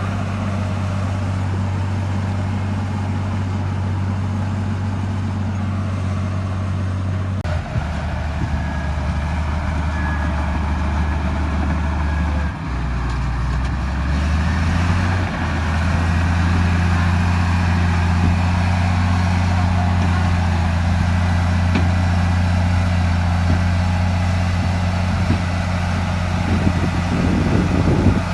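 Heavy diesel engine of earthmoving machinery running under steady load. Its engine note shifts down about 7 seconds in, shifts again about 12 seconds in, and comes back up a little louder from about 15 seconds on.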